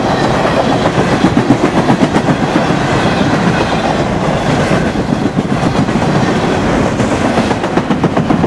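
Empty freight cars of a garbage train rolling past close by, their steel wheels clattering and clacking over the rail joints. The last car passes near the end.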